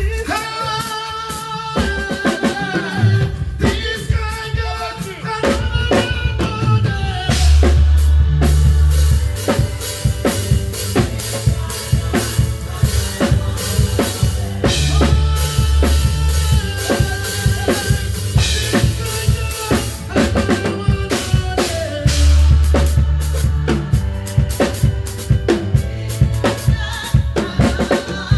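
Live band playing: a drum kit with kick, snare and cymbals keeps a steady beat over low bass notes and held chords. The drums come in about two seconds in and the band grows fuller about seven seconds in.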